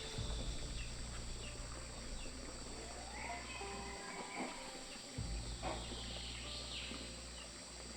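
Insects droning steadily and high, with scattered short bird chirps over them.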